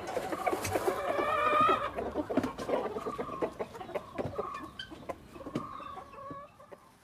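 Chickens clucking, many short calls overlapping, with one longer drawn-out call about a second in; the clucking fades away near the end.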